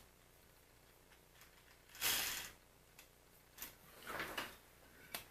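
A few short scraping or rustling noises, each about half a second, and a sharp click near the end: small handling sounds on a workbench.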